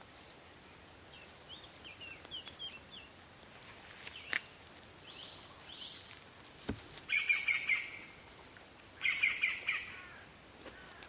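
Small songbirds chirping in the open, with two louder bursts of rapid, twittering song, one about seven seconds in and another about two seconds later. A couple of faint clicks fall between them.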